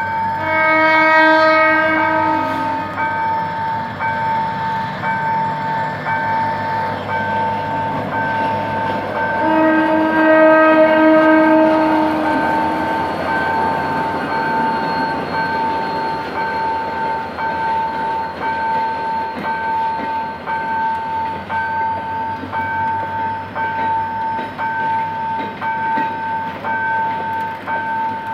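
GM GT22CW-2 diesel-electric locomotive sounding its horn twice, a two-second blast near the start and a longer one about ten seconds in, while the train's wheels clatter over a level crossing. A level-crossing warning bell rings in steady pulses throughout.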